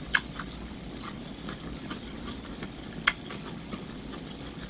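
A person chewing food close to the microphone, with a few sharp wet mouth clicks and smacks, about three, spread through the chewing.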